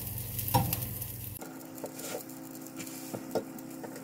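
Breaded potato-and-cheese patties sizzling gently in an oiled nonstick frying pan as they are turned over, with a few light taps of the spatula and fork against the pan.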